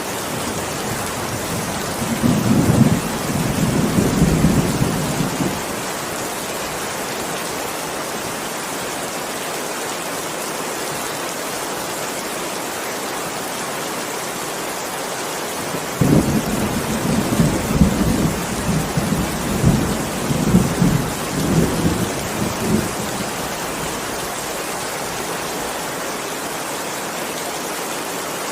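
Steady heavy rain with two rolls of thunder: a short low rumble about two seconds in, and a longer rolling rumble starting about sixteen seconds in that swells and fades over some seven seconds.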